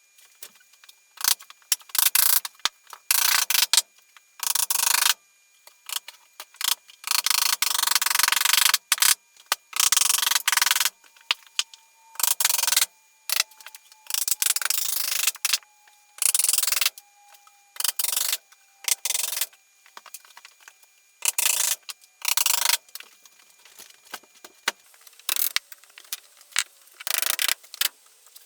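Hand tools working wood: a string of short, scratchy strokes of uneven length, separated by brief pauses.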